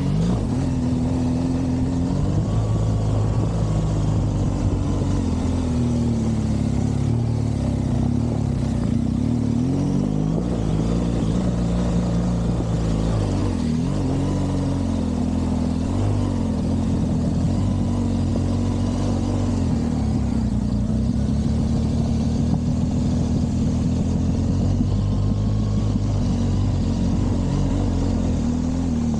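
BMW R1200GS's boxer twin engine being ridden hard, its revs rising and falling again and again.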